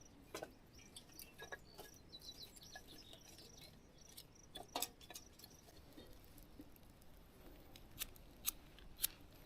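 Faint, scattered snaps and clicks of campfire wood, about a dozen spread through the stretch, with a slightly louder one near the middle and a few more near the end.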